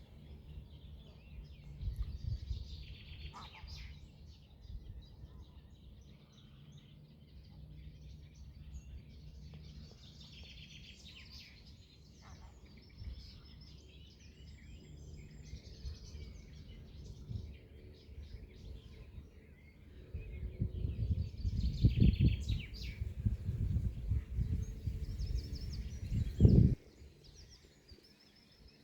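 Small birds chirping, with a low rumbling noise underneath that grows louder about two-thirds of the way through and then cuts off suddenly near the end.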